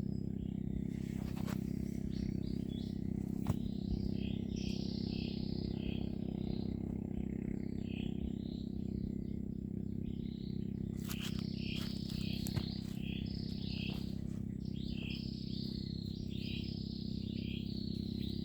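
Birds calling in series of short, repeated chirps, over a steady low rumble of background noise, with a couple of brief knocks.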